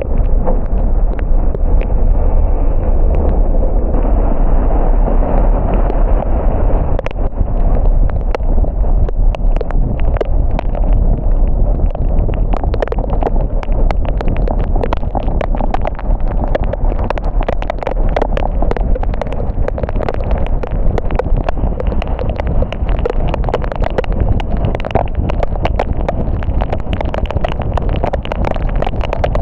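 A car driving in the rain: a steady road and tyre rumble with many irregular raindrop taps, which come thicker after several seconds.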